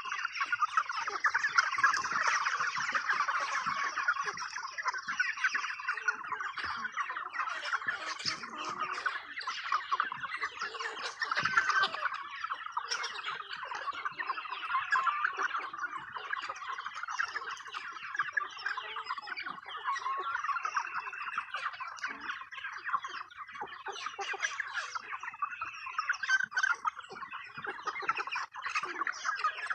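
A flock of chickens clucking and squawking, many birds calling over one another without a break, the excited racket of hens mobbing for treats.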